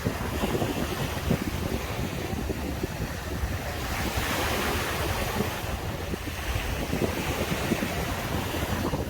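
Sea surf breaking and washing onto the beach, with one wave swelling loudest about four seconds in, and wind rumbling on the microphone.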